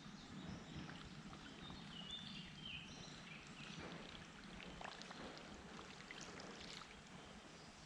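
Faint flowing and lapping creek water around a kayak, with a few short high chirps about two to three seconds in.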